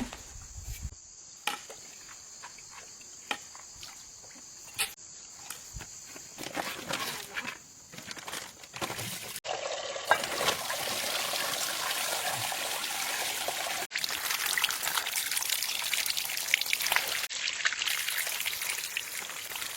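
Water trickling and running steadily, starting suddenly about halfway in. Before that it is quiet, with a few light clicks and knocks.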